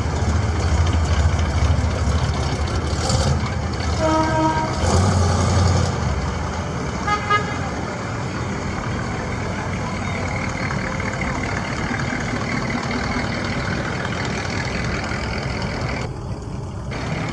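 Engines of passing cars running with a low rumble, louder in the first two seconds and again around five seconds in. A car horn sounds for about a second roughly four seconds in, and a second short, stuttering honk comes around seven seconds in.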